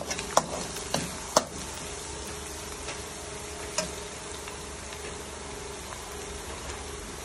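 Chopped onion, red bell pepper and garlic sizzling in oil in an aluminium wok. A metal spatula scrapes and knocks against the pan four times in the first second and a half and once more near the middle, then the frying goes on as a steady sizzle.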